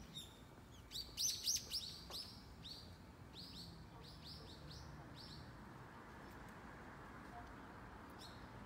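Small birds chirping: a quick run of short, high, falling chirps starting about a second in and fading out about halfway, over a faint steady street hum.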